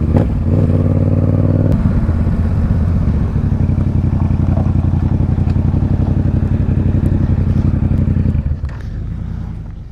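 Motorcycle engine running steadily at low road speed. The sound eases off about two seconds in, then drops to a quieter idle near the end as the bike slows.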